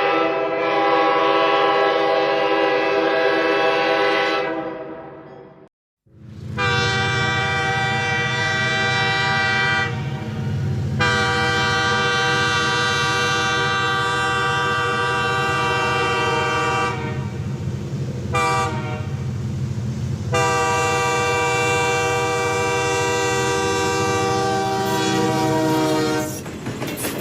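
Train horn sounding a held chord for about five seconds and fading out, then, after a moment's gap, one long sustained blast of about twenty seconds over a low rumble, its upper tones briefly dropping away a few times.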